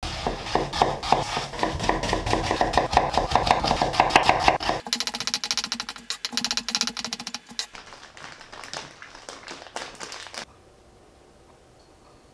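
Stainless steel santoku knife cutting on a hinoki wooden cutting board in rapid, even strokes: first a fuller chopping through daikon radish, then from about five seconds in lighter, crisper taps as yuzu peel is cut into fine strips, fading out about ten seconds in to a quiet room.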